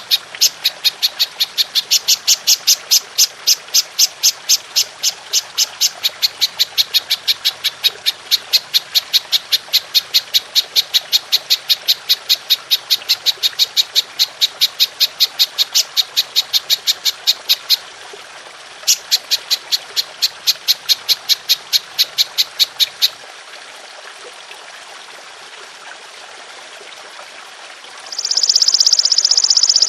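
Golden grasshopper (belalang emas) calling in a long, fast train of sharp, high chirps, about four to five a second, with a short break about 18 seconds in and stopping about 23 seconds in. Near the end a loud steady high hiss starts.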